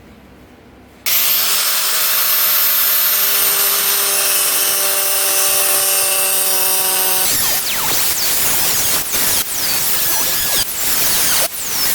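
A power tool starts suddenly about a second in and runs steadily. About halfway through, it changes to short, irregular strokes with brief dips, as if it is being worked against material.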